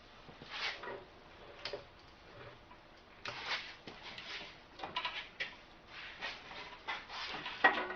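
Irregular clinks, scrapes and knocks of heavy metal parts and tools being worked into line on a tractor, with a few sharp clicks and denser bursts of scraping later on.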